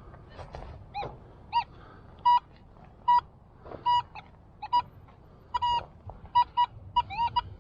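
Metal detector tones: short, loud electronic beeps of one pitch, with a few sliding warble tones, coming faster near the end as a metal target is located.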